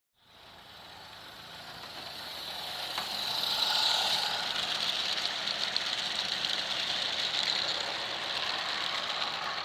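Garden railway train, a Roundhouse Lady Anne live-steam locomotive pulling a long rake of trucks, running on the track with a steady rattling mechanical noise. It grows louder over the first four seconds as the train approaches, then holds steady.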